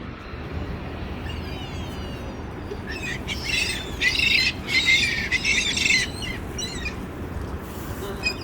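A flock of gulls calling. A dense stretch of overlapping squawks begins about three seconds in and lasts about three seconds, with scattered calls after it, over a steady low background rumble.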